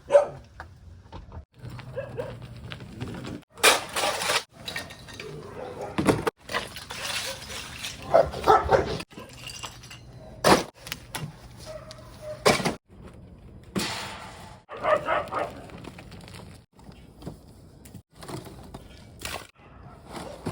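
Dogs barking off and on, mixed with sharp knocks and clatter.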